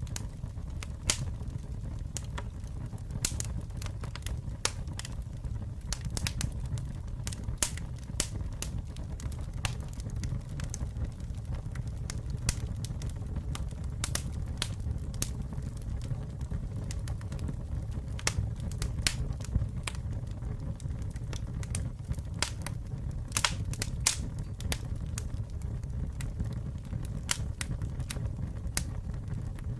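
Campfire burning, with a steady low rumble of flames and many sharp, irregular crackles and pops from the burning wood.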